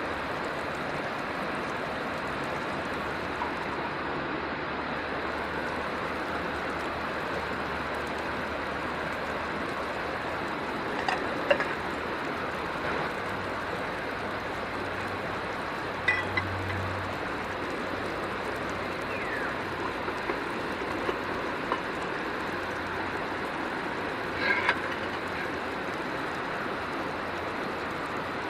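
Steady rush of flowing river water, with a few faint clicks or knocks.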